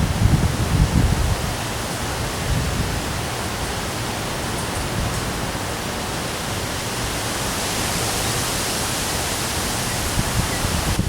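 Storm rain and wind making a steady, loud hiss, with wind gusts buffeting the microphone in the first second or two before settling into a steady rush that brightens slightly near the end.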